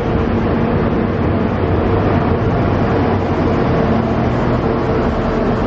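The Spirit of Queensland tilt train pulling out past the platform: the last carriages and then the rear power car roll by, a steady, unbroken running noise with a low hum.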